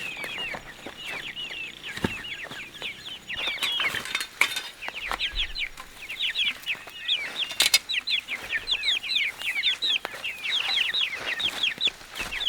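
Chickens calling: many short high-pitched peeps overlapping, with a few sharp knocks in between.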